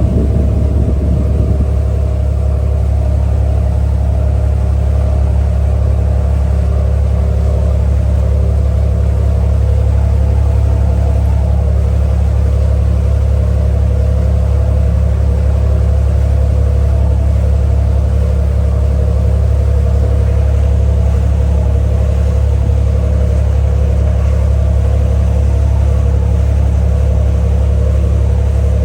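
Ferry's engine running at a steady low hum, heard from on board.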